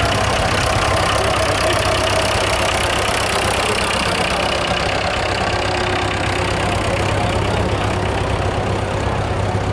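Vintage farm tractor engine running steadily at a low, even speed.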